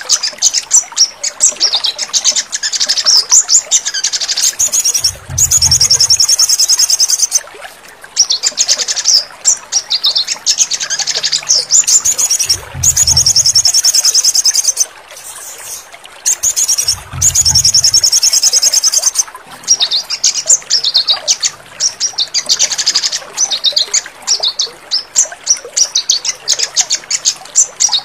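Sogon (crimson sunbird) song: rapid, high-pitched trills and chittering calls in phrases of a few seconds. Brief low rumbles are heard three times.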